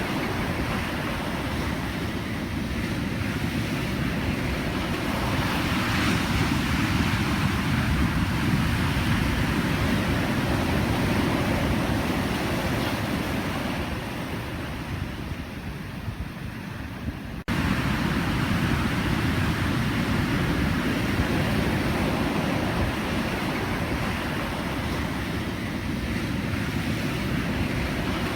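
Pacific Ocean surf: waves breaking and washing in a continuous rush that swells and eases slowly. It dips somewhat quieter about halfway through, then cuts abruptly back to full strength a little past the middle.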